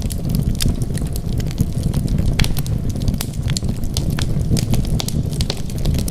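Wood fire crackling: frequent, irregular sharp pops and snaps over a steady low rumble of burning.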